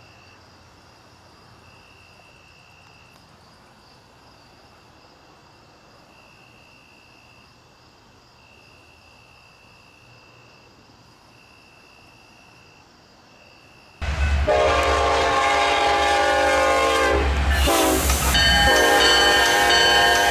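Faint outdoor quiet with a thin high tone coming and going, then about 14 seconds in a freight locomotive's multi-chime air horn sounds suddenly and loudly over the low rumble of diesel engines. The horn chord breaks briefly a few seconds later and resumes a little lower in pitch.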